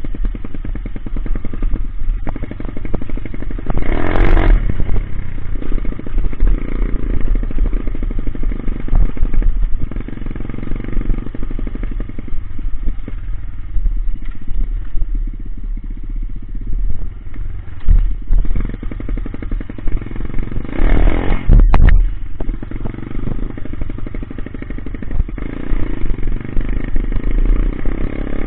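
Coolster 125 pit bike's small single-cylinder four-stroke engine running as it is ridden, loud throughout, with a steady low rumble. Two short, louder bursts of noise stand out, about four seconds in and again about twenty-one seconds in.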